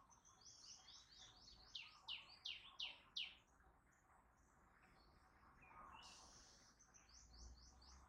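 A wild bird singing faintly: a rapid run of high, falling notes that ends in four or five louder strokes about three seconds in. A second short, quick run of high notes follows near the end.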